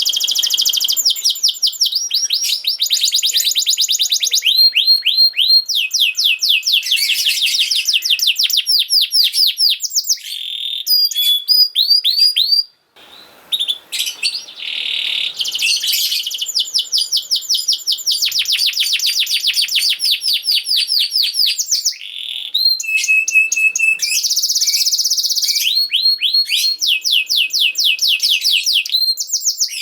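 Domestic canary singing: long fast trills of rapidly repeated high notes, mixed with short whistled notes and rolls, with a brief break about thirteen seconds in.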